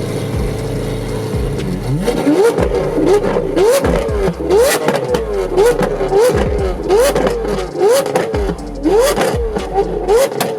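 Car engine idling, then revved in a string of quick throttle blips, about two a second, each one a short rising rev.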